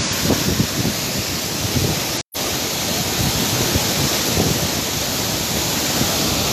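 Waterfall rushing steadily, an even wash of falling water, with a brief total dropout in the audio about two seconds in.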